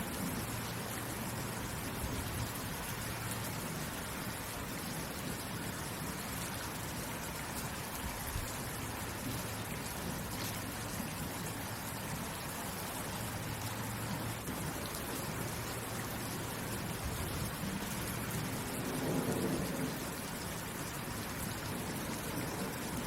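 Steady rain falling, an even hiss of drops. A low rumble swells briefly about nineteen seconds in.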